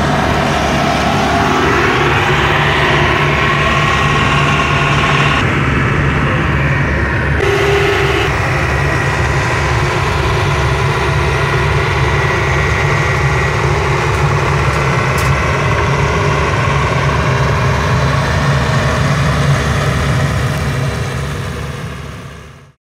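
Heavy diesel engine of a Sany SR150C rotary drilling rig running steadily with a low, fast pulse, fading out near the end.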